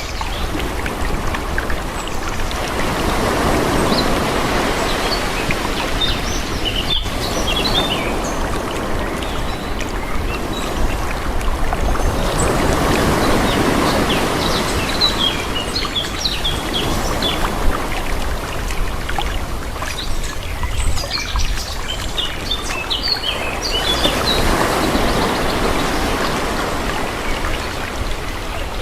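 Calm sea: small waves washing in and drawing back in three slow swells, about ten seconds apart, with small birds chirping over the surf.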